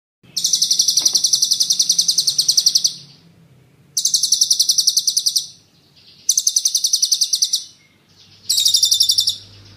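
A songbird's recorded rapid trill ('ngeroll'), four bursts of fast, evenly repeated high-pitched notes, each lasting one to three seconds with short pauses between.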